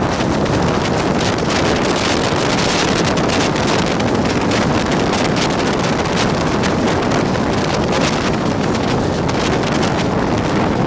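Steady wind buffeting the microphone over the running rumble of a Janshatabdi Express passenger train at speed, heard from its open door.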